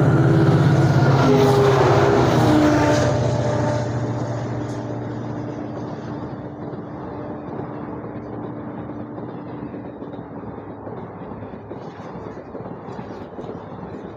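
Express passenger train running through a station at speed. The locomotive is loudest for the first three seconds or so with a deep engine hum, then the coaches roll past with a steady wheel-and-rail rumble that slowly fades.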